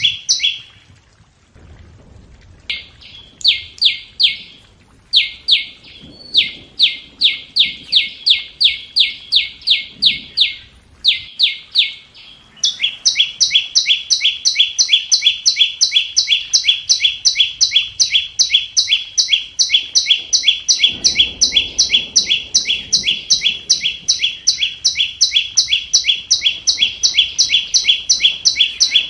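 Scarlet-backed flowerpecker call: a fast, even series of sharp, high, downward-slurred notes, about four a second. They come in a few short runs broken by pauses, then one long unbroken run from about a third of the way in. This is a call used as a lure for trapping wild birds.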